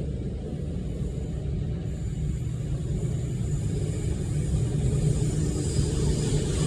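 Train rumbling past on the main line, growing steadily louder, with a rising hiss of wheels on rail towards the end as it comes closer.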